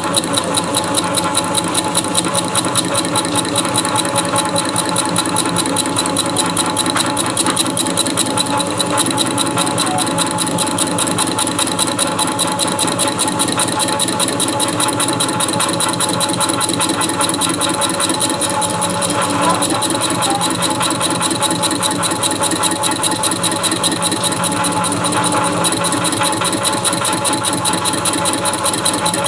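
Metalworking machine tool running steadily while taking a 20-thou first cut in an engine base at slow speed and slow feed: a steady motor and gear whine with a fast, even chatter.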